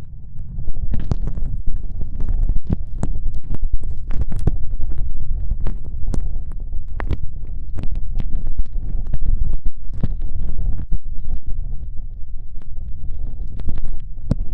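Close-up wet ear-licking on the left ear of a binaural ear microphone: a tongue pushed deep into the ear canal and wriggling, blocking it. It gives a dense low rumble with many sharp wet clicks and smacks scattered through it.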